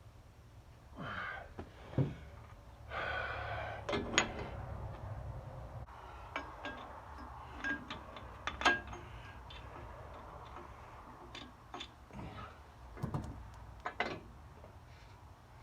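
Metal parts and tools clinking and knocking while a manifold clamp is fitted: scattered sharp clicks and clanks, the loudest about two, four and nine seconds in, with brief rustling between them.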